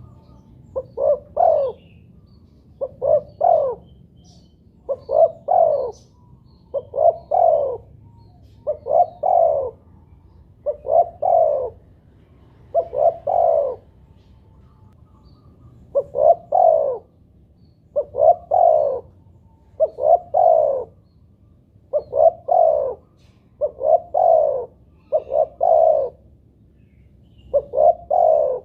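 Spotted dove (tekukur) cooing: a short phrase of two or three quick coos repeated about every two seconds, with one slightly longer pause midway.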